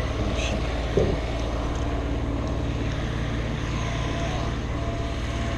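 An engine running steadily at low, even revs, with wind noise on the microphone. A short voice-like call rises out of it about a second in.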